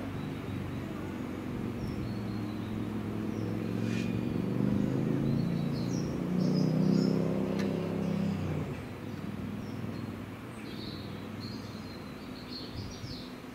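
Diesel train engine running, growing louder and then dropping away sharply about eight and a half seconds in. Birds chirp over it, most clearly near the end.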